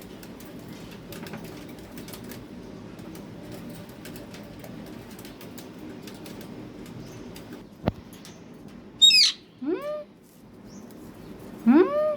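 Pet parrot calling: a sharp screech sliding steeply down in pitch, then several short rising squawks over the last few seconds. Before the calls there is low steady background noise and a single sharp click.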